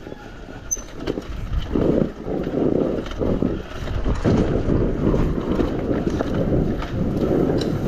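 Two-stroke enduro dirt bike being ridden on a trail, its engine low under wind buffeting the action-camera microphone in uneven gusts.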